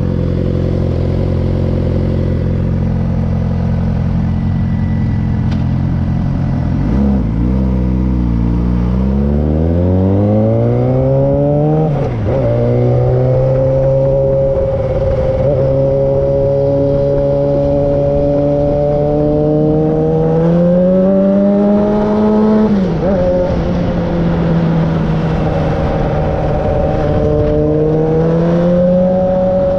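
2009 Suzuki GSX-R 600's inline-four engine through an M4 aftermarket exhaust. It idles steadily at first, then revs up while pulling away, with a short dip in pitch at each upshift, twice. It then runs at a steady cruising pitch that rises and falls a little.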